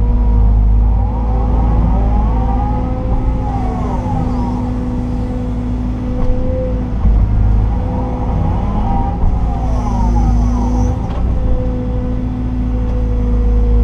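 Liebherr R926 excavator's diesel engine running steadily, heard from inside the cab, with a whine that rises and falls twice, about a second in and again about eight seconds in, as the hydraulics work the boom and swing while loading.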